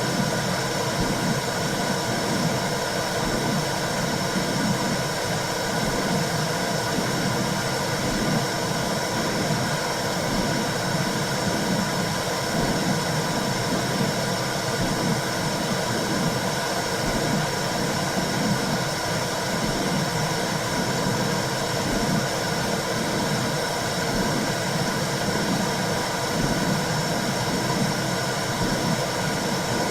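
Womb-sound white noise for soothing a baby: a steady low whooshing hiss that swells and wavers in a slow, repeating pulse.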